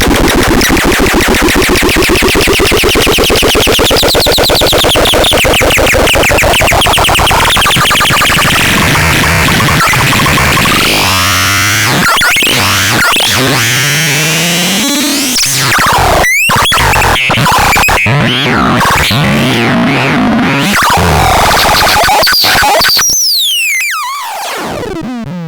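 Harsh, noisy electronic synthesizer sound: a dense rapid pulsing texture with sweeping pitch, turning choppy and glitchy about halfway, with brief dropouts and a falling sweep before it gets quieter near the end.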